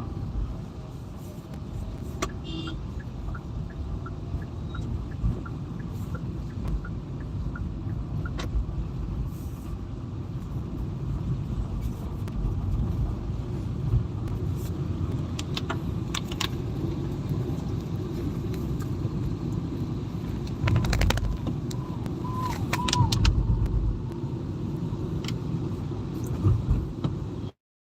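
A car driving, heard from inside: a steady low road-and-engine rumble with scattered light clicks and taps on top.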